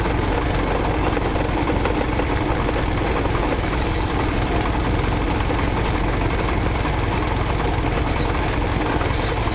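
Citabria light aircraft's four-cylinder piston engine and propeller running steadily at low power, without any rise in pitch.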